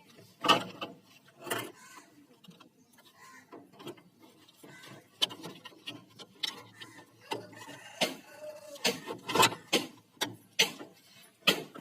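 Irregular clicks, knocks and rubbing from hands working on a washing machine's plastic panel and wiring connectors as they are taken apart.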